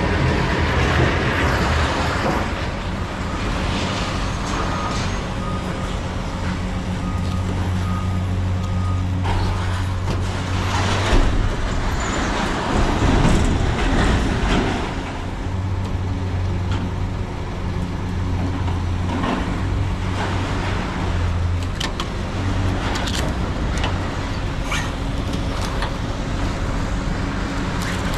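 Vehicle driving on the road: steady engine hum and road noise, with a few short clicks and knocks partway through.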